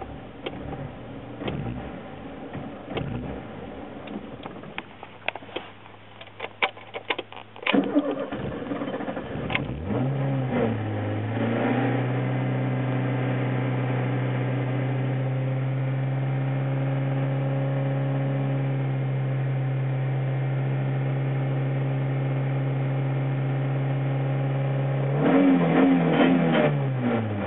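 Ford Escort/Orion 1.6i's four-cylinder engine, heard from inside the car while it stands still. It idles unevenly with scattered sharp clicks, is revved up about eight seconds in and held at a steady high speed, then rises briefly higher near the end before dropping back.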